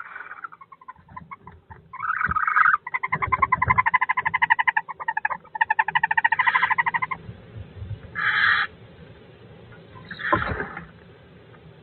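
Birds calling in a nest box during a fight between a kestrel and a barn owl. A rapid chattering trill of about ten notes a second runs for several seconds. It is followed by two short harsh, hissing calls, with a few scuffling thuds against the box.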